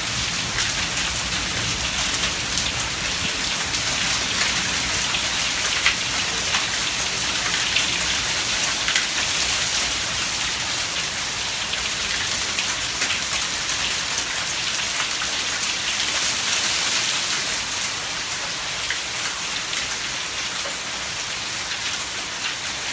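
Heavy rain and hail falling steadily, a dense hiss full of sharp ticks of drops and hailstones striking hard surfaces, with a few louder strikes around the middle.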